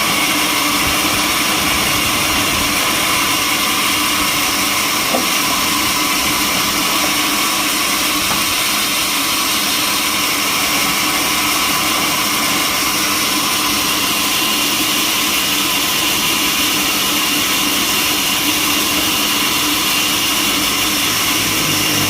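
Sawmill machinery running steadily: a continuous, even mechanical noise with a steady whine, no cuts or impacts standing out.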